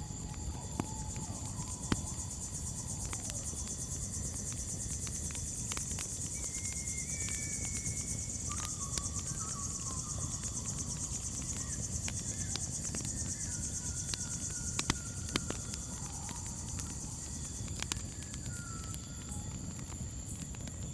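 Crickets trilling steadily in a high band while a campfire crackles with scattered sharp pops over a low rumble. A few short, wavering whistled bird calls come and go in the middle.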